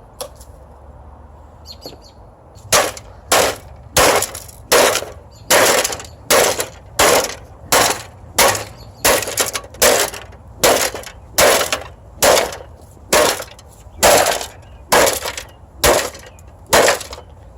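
A cut-down golf club used as a fire poker repeatedly smashes a washing machine's parts with sharp cracking blows. The blows start a little under 3 seconds in and come evenly, about two a second.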